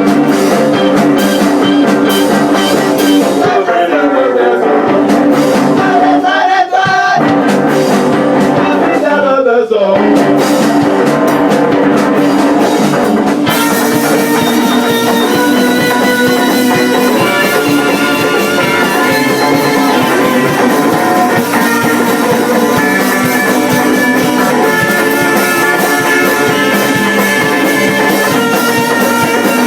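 A rock band playing a song live: guitar and drum kit with singing. Sliding, swooping pitches run through the first ten seconds, and about 13 seconds in the sound fills out and brightens as the full band plays on.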